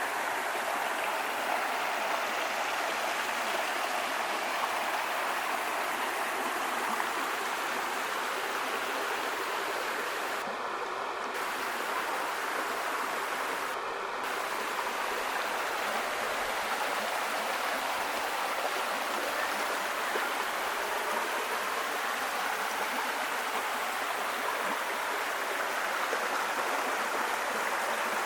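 Steady rushing water, like a stream or small waterfall, an even unbroken rush throughout.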